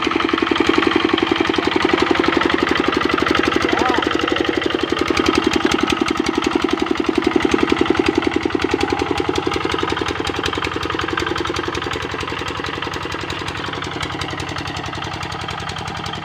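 Kubota RD65 single-cylinder diesel engine on a hand tractor running steadily with a fast, even beat. It grows somewhat quieter after about ten seconds.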